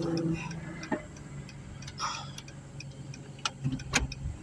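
A few sharp clicks at irregular intervals over a low steady hum.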